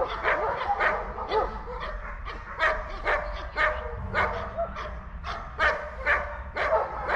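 German shepherd dog barking repeatedly, about two barks a second.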